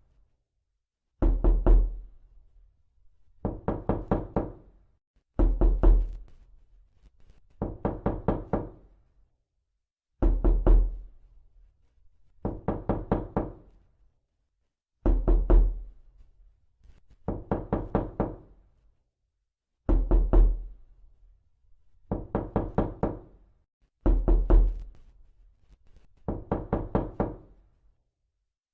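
Knocking in quick rattling groups of about four or five raps, a group roughly every two seconds with dead silence between, some groups carrying a deeper thud and a short ringing tail.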